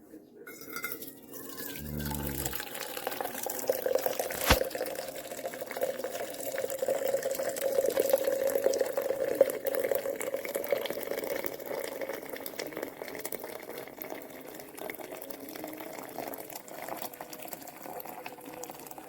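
A steady stream of liquid pouring into a vessel. It builds up over the first few seconds and eases off toward the end. There is a dull knock about two seconds in and a sharp click a couple of seconds later.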